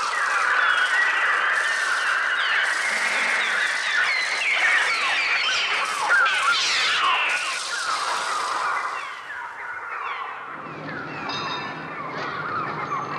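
A dense clamour of many overlapping screeching gull-like cries and wing flutter, produced electronically on a Mixtur-Trautonium. About ten seconds in it thins to scattered gull cries over a low steady city traffic rumble.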